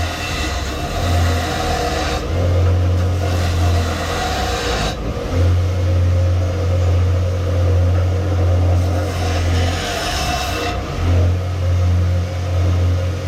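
Electric sanding tool running steadily while the steel of an axe head is pressed against it in spells. A rough, hissing grind comes and goes over the motor's steady hum, and the hum weakens while the grind is on.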